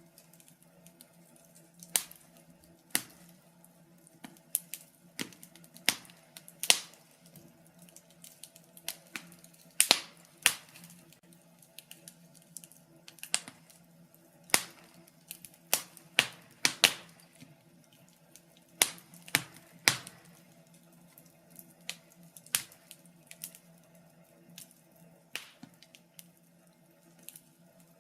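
Wood fire burning in a fireplace, crackling with irregular sharp pops, several of them loud, over a faint steady low hum.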